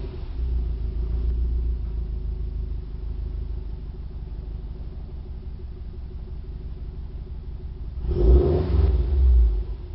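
2008 Subaru WRX STI's turbocharged 2.5-litre flat-four idling just after a warm start, through a catless Invidia downpipe and Agency Power cat-back exhaust, with a deep low rumble. The idle settles slightly lower over the first few seconds, then two quick throttle blips come about eight and nine seconds in.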